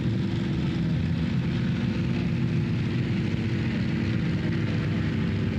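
A large tractor engine running steadily at constant speed.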